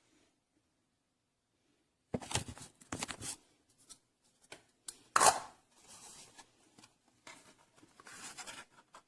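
Irregular short bursts of scraping and rustling handling noise, the loudest about five seconds in, with no steady tone; nothing is heard for the first two seconds.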